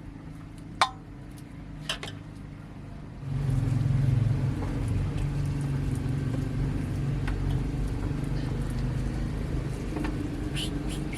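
A motor or engine running with a steady low hum, which grows louder about three seconds in. Before that there are two sharp clicks.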